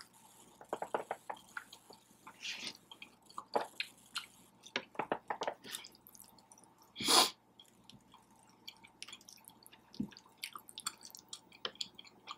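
Close-up eating sounds of a person chewing pasta with the mouth near the microphone: wet chewing, lip smacks and small irregular clicks. One louder, brief noise comes about seven seconds in.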